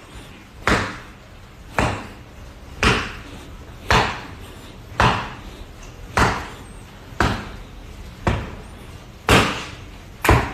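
A run of ten evenly spaced bangs, about one a second, each sharp at the start and fading quickly.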